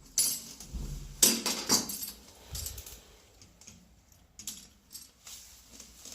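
Metal objects being handled: irregular clinks and clattering knocks, several sharp ones in the first two seconds, then fainter scattered ones.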